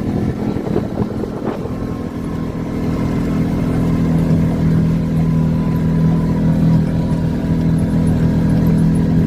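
Off-road vehicle engine running steadily while driving, a continuous low drone that gets a little louder about three seconds in.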